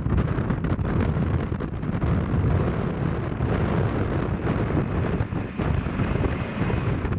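Strong gusting wind buffeting the microphone: a loud, heavy rumble that swells and dips with the gusts.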